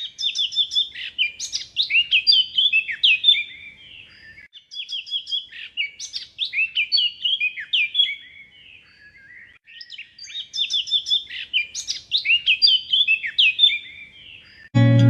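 A songbird singing three long phrases of rapid, varied chirps and trills, with short pauses between them. Music comes in near the end.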